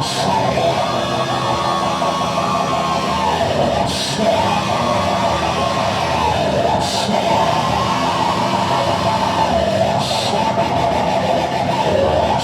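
Congregation praying aloud all at once, many overlapping voices over steady background music, with a brief hiss swelling about every three seconds.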